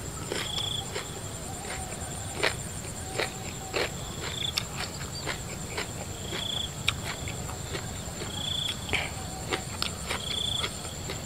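Wet chewing, lip smacks and crunches of a person eating shrimp in spicy dressing by hand, over a steady high chirring of field crickets. Short, higher chirps recur every couple of seconds.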